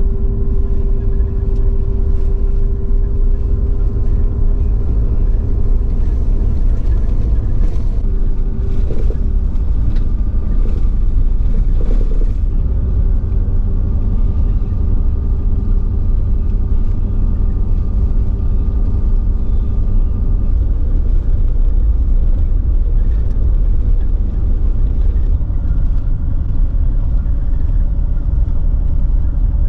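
Motor vehicle running steadily on the move: a constant low rumble with a faint steady hum over it that shifts briefly about eight and twelve seconds in.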